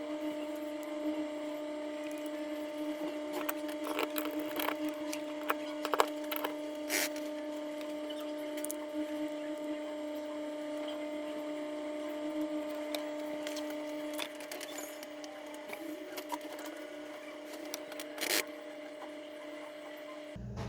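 Scattered small clicks and taps of tools and small parts being handled during a phone repair, over a steady hum.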